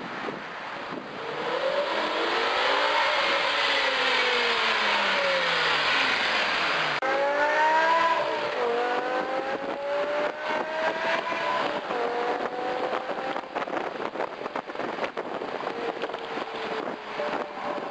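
2007 BMW M6's V10 engine through a Meisterschaft GT quad-tip exhaust: the engine note climbs and falls once, then after a sudden change about seven seconds in it accelerates hard, the pitch rising and dropping back several times as it shifts up through the gears.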